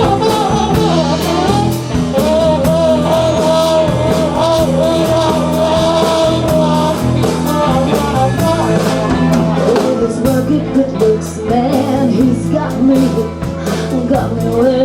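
Live band playing a rock and roll number with a steady drum beat, bass and singing.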